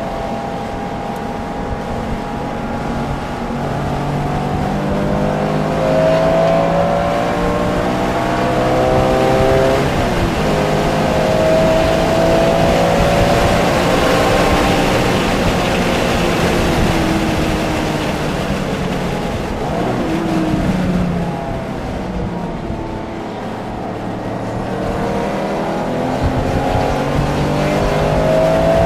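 Porsche engine at full throttle on a race track. The revs climb in long pulls, drop at each upshift, fall away in a quieter stretch about two-thirds through as the car slows, and climb again near the end.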